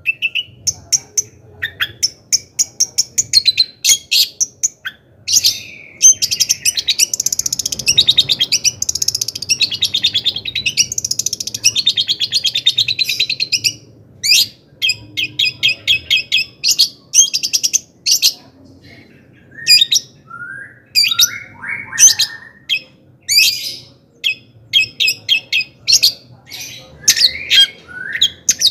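Long-tailed shrike (cendet) singing loudly in a varied song. It opens with bursts of sharp, high chips, runs into a fast continuous chatter in the middle, then goes on in spaced-out calls with a few short gliding notes.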